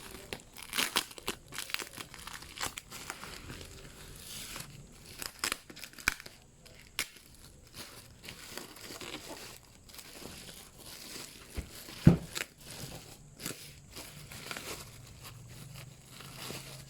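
Crinkling and rustling of handled packaging, with scattered small clicks and one sharp knock about twelve seconds in.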